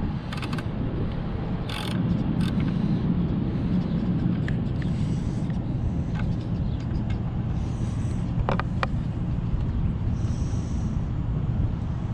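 Steady low rumble, like wind on the microphone or distant traffic, with a few sharp clicks and knocks of hand tools and engine parts being handled: a pair near the start and two close together past the middle.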